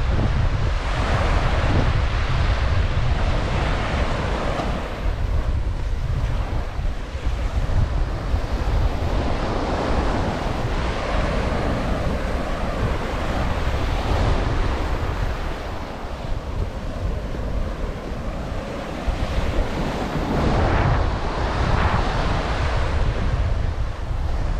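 Ocean surf breaking and washing up a sandy beach in swells every few seconds, with wind buffeting the microphone in a steady low rumble.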